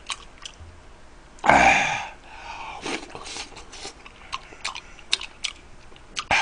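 A man chewing spicy tteokbokki rice cakes with wet mouth clicks and smacks, and one loud breathy exhale about a second and a half in.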